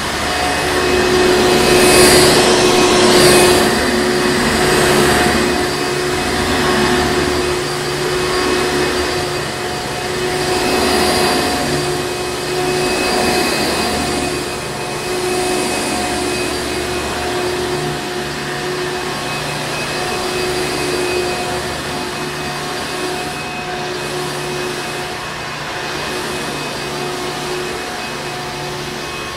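Hoover Encore Supreme upright vacuum cleaner running: a steady motor whine under a rushing air noise that swells and fades every couple of seconds.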